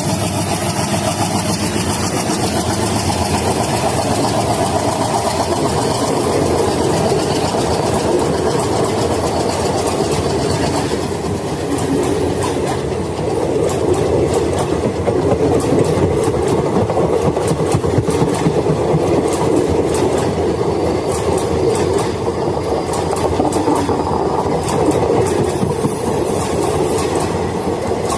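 A train running past at speed: a steady, loud rumble of the wheels and cars, with the rapid clickety-clack of wheels over rail joints from about a third of the way in.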